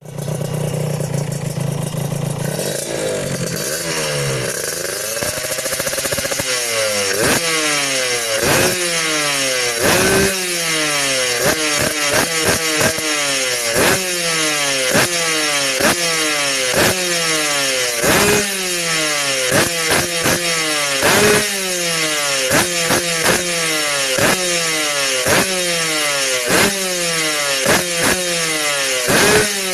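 Suzuki RGR 150's two-stroke single-cylinder engine warming up: idling steadily at first, revved up about three to six seconds in, then blipped on the throttle over and over, roughly once a second, the revs falling back after each blip.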